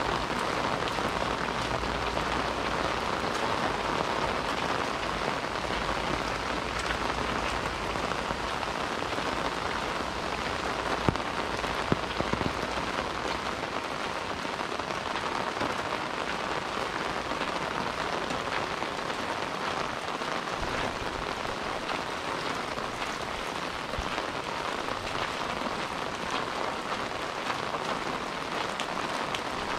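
Steady rain falling on hard surfaces, a dense even patter with a few sharper drops about eleven and twelve seconds in.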